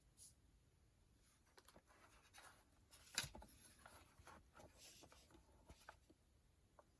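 Faint handling noises: scattered light clicks and scratchy rustling, with one sharper click about three seconds in.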